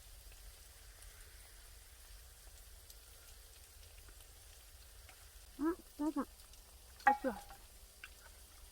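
Faint steady sizzle of offal frying on a grill. Short voice calls break in about two-thirds of the way through, one of them an 'appa' (dad) call.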